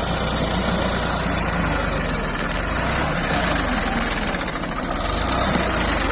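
Tractor engine running steadily with a rapid, even firing beat.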